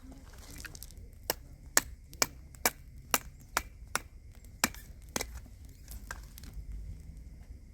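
Repeated chopping: about nine sharp strikes, roughly two a second, then a few fainter ones.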